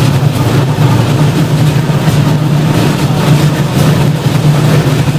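Tram running: a steady low hum under an even rushing noise.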